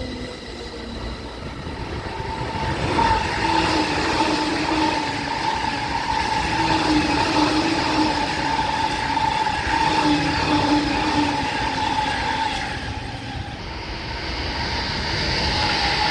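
JR East E531 series electric commuter train running on the tracks: rail rumble with a steady motor tone on top, swelling about three seconds in and easing briefly near the end.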